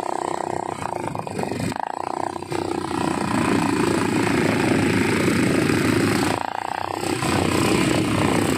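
ATV engine running under throttle, getting louder about two and a half seconds in and easing off briefly near the end.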